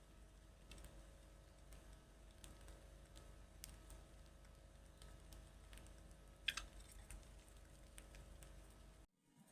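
Near silence: faint scattered clicks over a steady low hum, with one sharper click about six and a half seconds in. The sound cuts out near the end.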